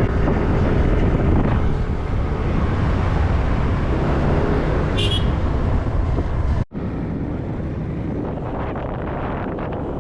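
Motorbike engine running and wind buffeting the microphone while riding along a road. A sudden brief dropout about two-thirds of the way through, after which the noise is a little quieter.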